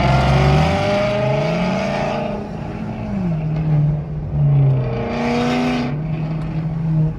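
Car engine revving: its pitch climbs about a second in, holds, then drops back about three seconds in and settles to a steady run, with a brief louder rush of engine noise around five seconds in.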